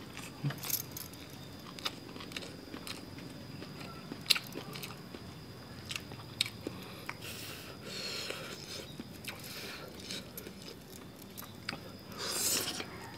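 Close-miked mouth sounds of eating whole cooked eel and rice by hand: chewing and crunching with many short sharp clicks scattered through. Near the end there is a louder, longer burst as a fresh mouthful goes in.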